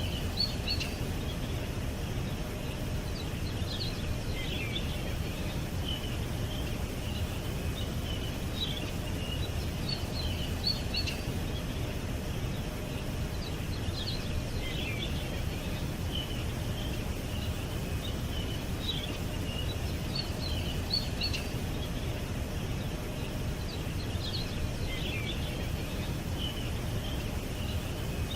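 Small birds chirping in short high twittering clusters every few seconds, over a steady low background rumble. The same groups of chirps seem to come round again about every ten seconds.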